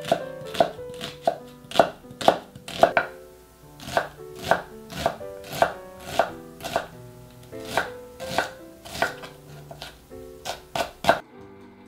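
A chef's knife chopping an onion on a wooden cutting board, sharp knocks about twice a second that stop about 11 seconds in. Soft background music plays underneath.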